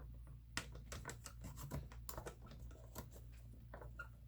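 Cardstock being handled and cut down to width: a run of faint, irregular clicks and taps.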